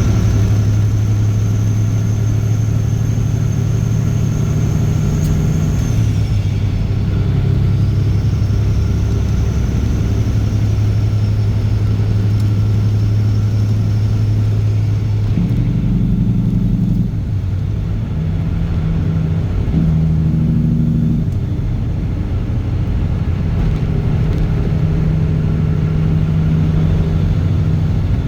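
Straight-piped Caterpillar C15 ACERT inline-six diesel running loud and steady, its low note shifting up and down in steps several times. A high whine above the engine drops away about six seconds in.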